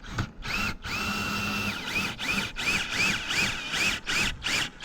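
Cordless drill cranking a camper jack up in short bursts, the jack near the top of its travel. One steady run of the motor whine about a second in, then quick on-off pulses, about three a second, each rising and falling in pitch, with clicks between.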